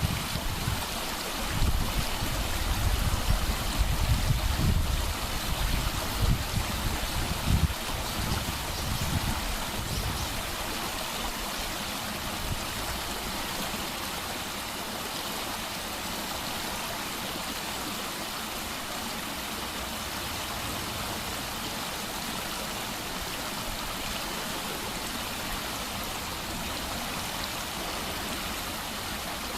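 Mountain valley stream gushing over rocks in a steady rush of water. Low gusty rumbles sit under it for about the first ten seconds, then die away.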